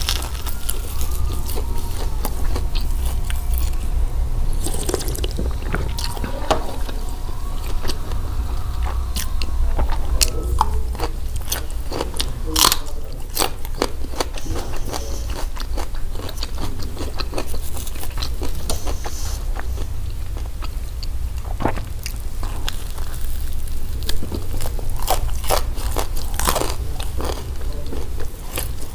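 Close-up mouth sounds of eating a crispy hawawshi, meat-stuffed flatbread: bites and chewing with many sharp crackles of the toasted crust. A steady low hum runs underneath.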